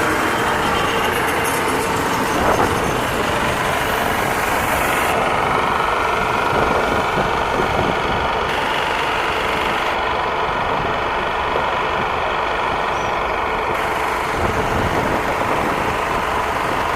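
Daewoo diesel train idling at a station platform: a loud, steady engine noise. A faint high steady whine comes in twice for a few seconds.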